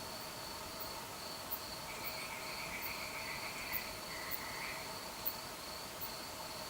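Summer-night chorus of crickets, a steady pulsing chirr with lower steady trills beneath it. A louder trilling call joins about two seconds in and lasts about three seconds.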